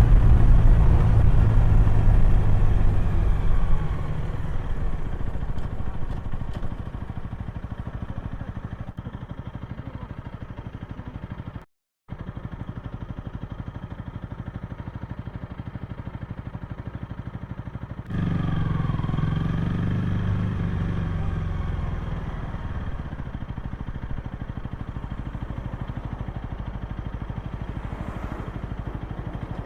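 Honda Rebel 250's single-cylinder engine and exhaust on the move: loud at first, then easing off over several seconds as the throttle closes. The sound cuts out for a moment, runs steadily at cruise, then grows louder again with the pitch rising and falling under throttle about two-thirds of the way through before settling.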